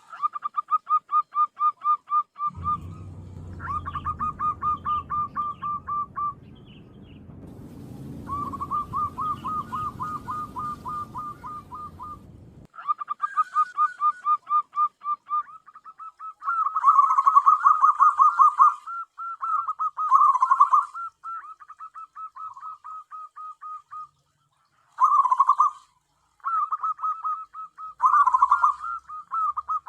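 Zebra dove (perkutut) singing: repeated phrases of rapid staccato cooing notes, each lasting one to a few seconds with short pauses between. A low rumbling noise runs under the calls for roughly the first half.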